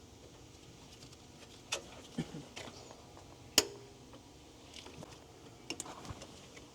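A few light clicks and taps of parts and hand tools being handled under the hood over a quiet background, the sharpest about three and a half seconds in.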